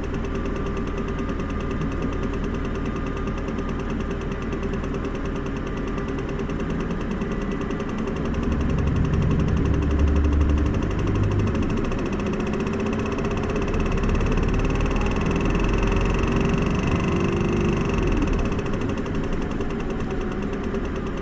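Isuzu Erga city bus's four-cylinder turbo-diesel heard from inside the bus, ticking over steadily. About eight seconds in the engine takes load as the bus pulls away, and it keeps running louder under way after that.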